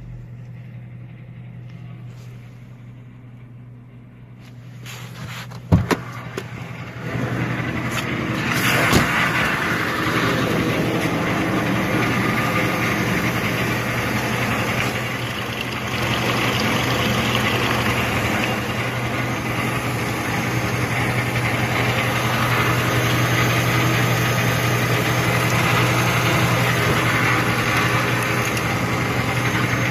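Opel Z16XE 1.6-litre 16-valve four-cylinder petrol engine idling steadily. It is fainter for the first few seconds, there are a couple of sharp knocks about six seconds in, and then it runs louder and steady.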